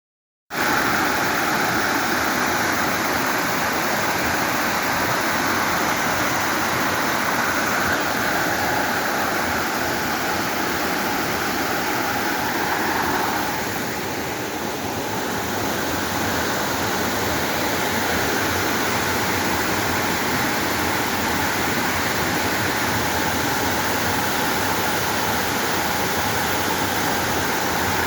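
Waterfall rushing: a loud, steady noise of falling water, easing slightly for a moment about halfway through.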